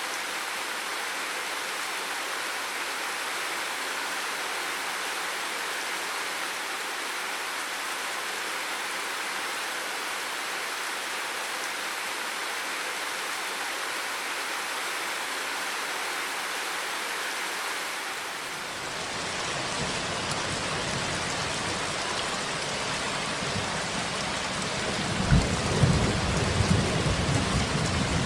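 Steady rain hiss. About eighteen seconds in it gives way to a thunderstorm: heavy rain with deep rolling thunder building from about 25 seconds in, the loudest part.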